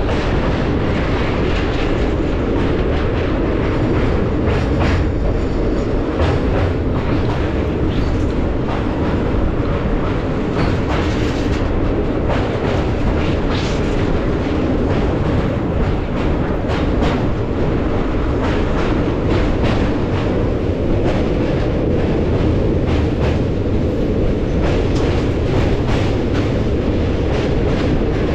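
Express passenger train running along the track: a steady, loud rumble of wheels on rail with frequent irregular clicks and clatter from the wheels and couplings.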